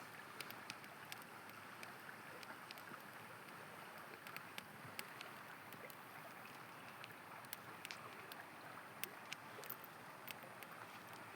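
Steady rush of a river, with the sharp crackles and pops of a wood campfire scattered irregularly through it.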